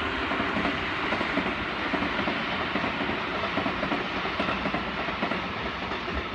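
Electric commuter train running past on the tracks: a steady rumble of wheels on rail with rapid clatter, easing slightly near the end.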